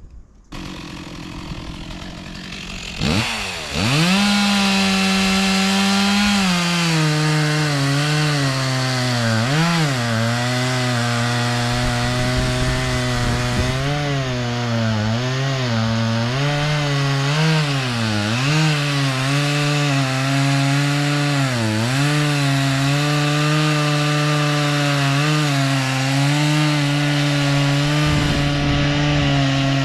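Stihl MS260 two-stroke chainsaw revving up about three seconds in, then running at full throttle while bucking larch logs. Its pitch dips again and again as the chain bogs in the wood. The cut is slow and laboured, which the operator puts down to a chain that needs sharpening and a very hard log.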